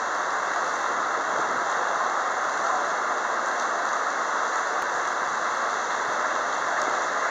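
Heavy rain falling steadily, an even hiss with no changes.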